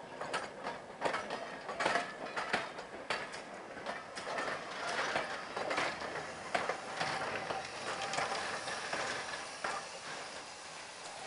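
Steam-hauled train rolling slowly past at close range: irregular metallic clicks, clanks and knocks from its wheels, couplings and running gear, thinning out towards the end.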